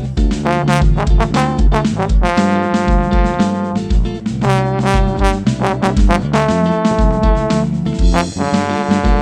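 Band music led by trombone and trumpet: the brass plays held melody notes over drums and bass with a steady beat.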